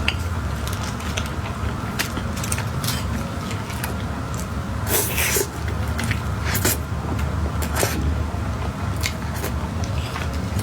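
Close-miked eating sounds: scattered short clicks and smacks of mouth and utensil over a steady low hum.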